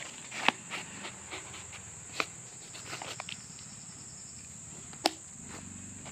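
Steady high-pitched chirring of crickets, with soft rustling and three sharp clicks about half a second, two seconds and five seconds in.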